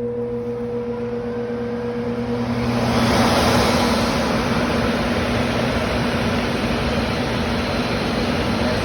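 Squirrel-cage blower fan from a furnace running on low with a steady motor hum, then turned up on its dimmer switch about three seconds in: the rush of air swells and holds steady and louder at high speed.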